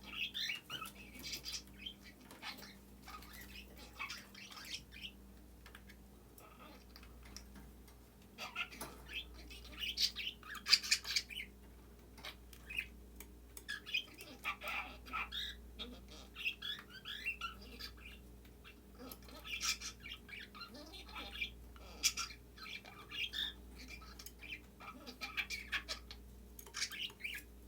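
A budgie chattering and mimicking speech into a nestbox, in several bouts of rapid warbling with sharper squawk-like notes and short pauses between. The loudest bout comes about ten seconds in.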